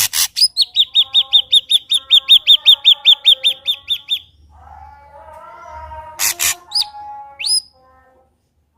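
Ashy drongo singing. A fast run of about twenty sharp, repeated down-slurred notes, some six a second, gives way to lower warbling notes broken by loud clicks and two quick rising whistles.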